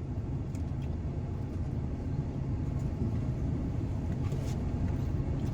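Steady low hum of a truck engine idling, heard from inside the cab, with a few faint clicks of chewing as a bite of a chicken-tender hot dog is eaten.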